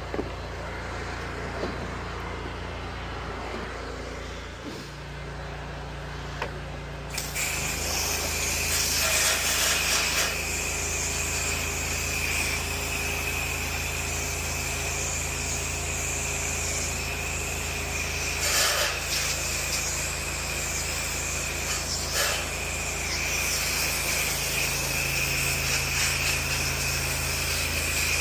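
Pressure washer running steadily; about seven seconds in, spraying starts and a loud steady hiss of water jetting runs on over the engine's hum.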